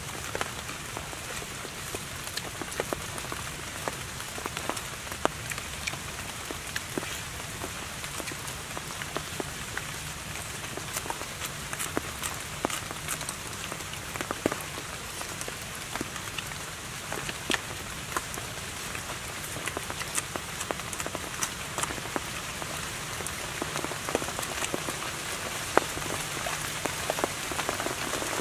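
Rain falling on forest leaves: a steady hiss with many irregular sharp drip ticks.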